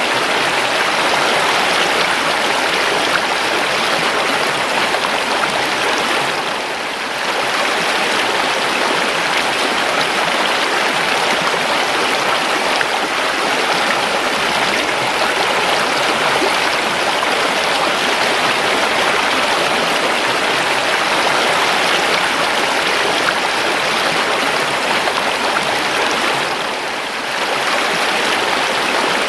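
River water running in a steady rushing flow, dipping briefly in loudness twice.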